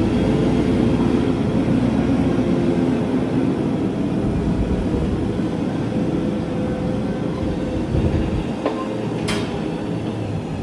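A farm loader's engine running steadily, with two sharp clanks near the end.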